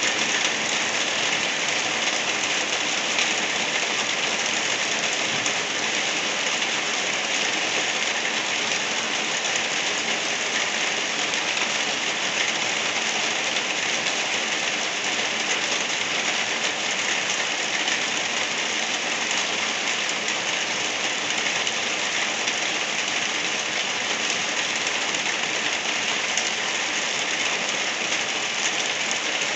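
Light rain falling steadily, an even hiss of rain on a surface with no separate drops standing out.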